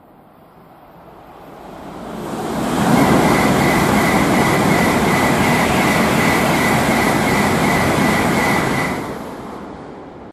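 A Tokaido Shinkansen bullet train running through the station at high speed without stopping. The rush of noise builds over about two seconds, holds loud and steady with a high whine for about six seconds, then fades quickly near the end.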